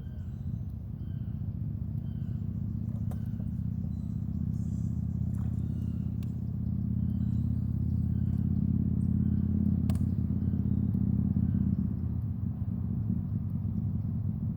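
A motor engine running steadily with a low hum that grows gradually louder over the first two-thirds, as if approaching. Faint chirps repeat about twice a second above it.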